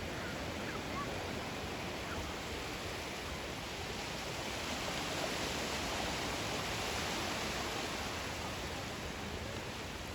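Sea surf washing on a beach: a steady hiss that swells gently about halfway through and eases near the end.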